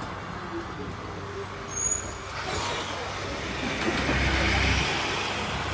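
Z3 class tram running, heard from on board: a steady low rumble with a brief high-pitched squeal just before two seconds in, then a rushing wheel-and-track noise that builds and is loudest about four seconds in.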